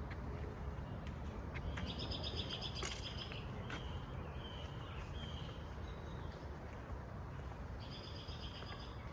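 Wild songbirds calling in woodland: a rapid series of high chirps about two seconds in and again near the end, with shorter single notes in between, over a steady low background rumble.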